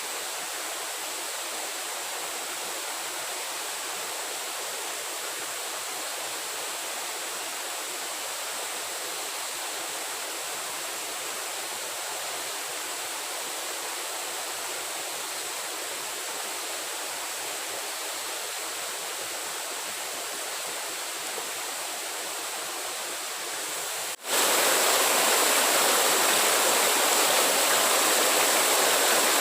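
Steady rushing noise of running water, which suddenly gets louder near the end.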